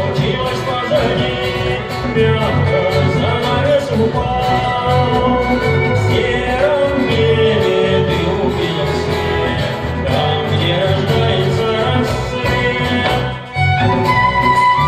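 Live band music led by a fiddle over guitar accompaniment. There is a brief drop near the end before a new held note comes in.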